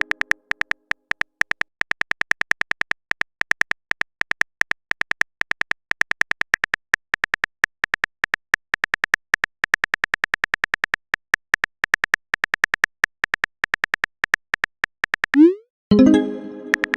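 Texting-app typing sound effect: a fast, uneven run of small tapping clicks. Near the end comes a short rising swoosh, then a pitched chime that fades, the alert of a message appearing.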